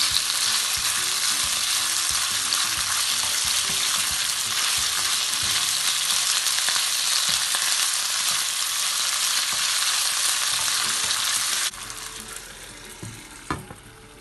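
Stir-fry sizzling loudly in a hot pan as it is stirred. It cuts off abruptly about three-quarters of the way through, leaving a fainter sizzle and a single sharp knock near the end.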